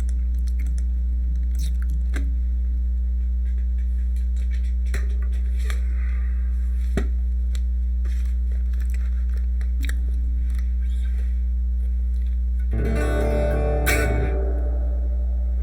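Guitar played through an effects unit: a few sparse picked notes, then a short, louder run of notes near the end, all over a steady low hum.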